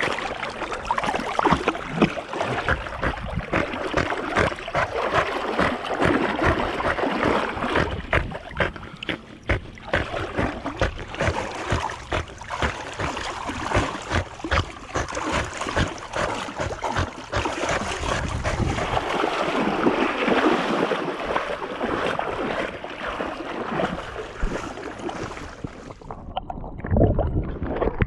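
Water splashing and sloshing around a kayak, with wind buffeting the action camera's microphone. About two seconds before the end the sound turns muffled, losing its highs.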